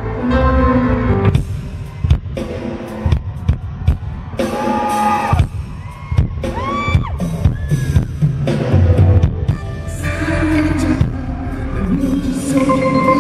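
Live concert sound: a pop song played loud over the hall's speakers, with a singing voice, and a few high gliding screams from the audience in the middle.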